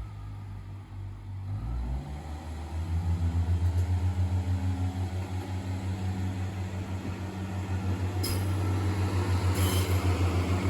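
Class 142 Pacer diesel railbus under way, heard from on board: a steady low pulsing drone from its underfloor diesel engine. About three seconds in the drone rises in pitch and loudness as the engine takes power, then builds gradually. A couple of brief high-pitched squeals come near the end.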